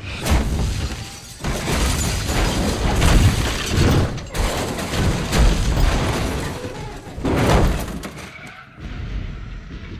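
Film sound effects of a multi-car highway pileup: a run of heavy crashes and impacts with shattering glass.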